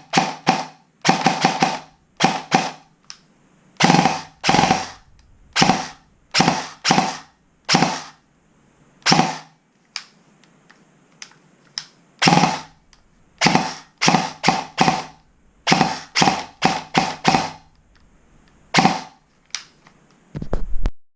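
Airsoft electric gun with an SHS high torque motor on an 11.1 V battery, firing single shots in quick pairs and threes with short pauses. Each shot is a sharp crack with a brief ring.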